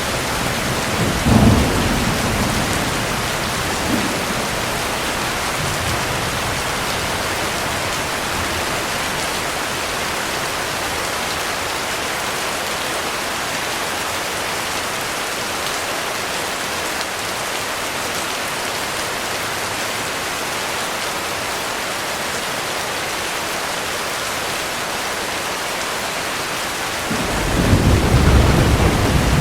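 Heavy rain falling steadily with thunder: a rumble with a loud clap about a second and a half in dies away, and a new peal of thunder rolls in near the end.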